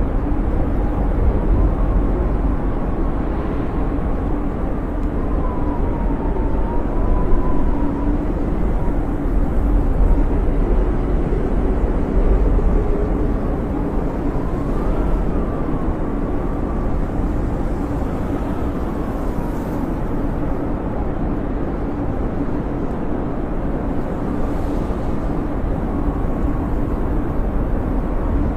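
Snowstorm wind: a steady low rushing with a faint whistling howl that wavers up and down in pitch.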